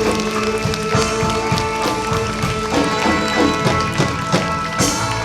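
Live band playing: held chords over regular drum beats, with a cymbal crash near the end leading into a sustained closing chord.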